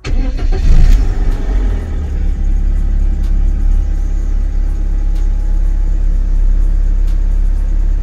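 BMW E36 engine starting up on a newly fitted fuel pump, flaring briefly about a second in as it catches, then settling into a steady idle.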